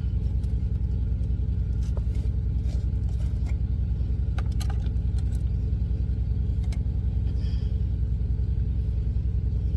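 Semi-truck's diesel engine idling steadily with a low, even throb, heard from inside the cab, with a few light clicks from the cooking over it.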